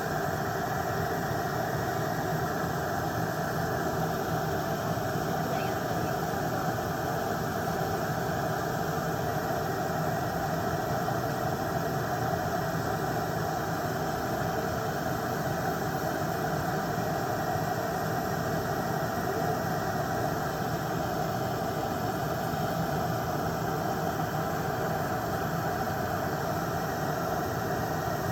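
Electric nail drill running steadily, its spinning bit grinding off gel polish.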